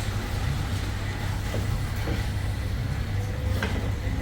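Steady low rumble of a running vehicle, with a few faint clicks in the second half.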